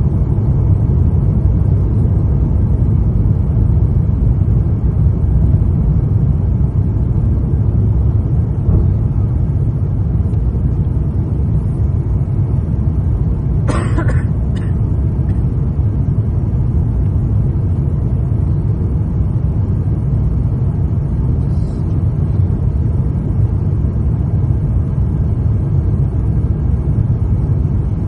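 Steady low rumble of engine and airflow noise inside the cabin of an Airbus A350-900 with Rolls-Royce Trent XWB engines, during the descent on approach. About halfway through there is one brief, sharp sound, like a cough.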